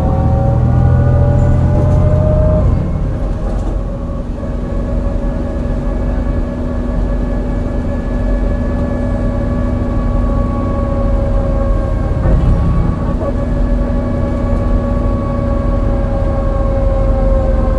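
MAN NL202 CNG city bus under load on a hill climb: the ZF Ecomat automatic gearbox whines, rising in pitch for the first couple of seconds, then holding and slowly sagging, over the engine's rumble. The engine has a bad misfire. The heavy low rumble eases a little under three seconds in.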